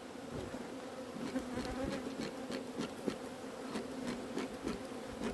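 Honeybees buzzing around an open hive: a steady hum, with irregular light clicks and taps over it from about a second in.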